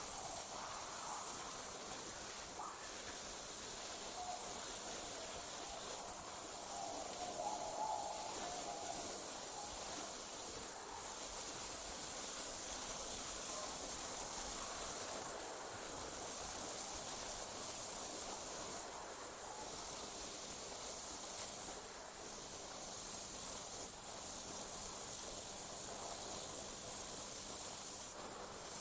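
Night insects, probably a chorus of crickets or katydids, trilling continuously at a very high pitch, with brief breaks every few seconds.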